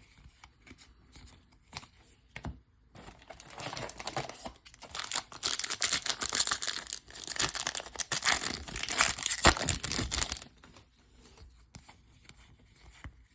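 A foil-wrapped baseball card pack being torn open, its wrapper crackling and crinkling for about seven seconds, starting about three seconds in; light rustles and clicks of cards being handled before it.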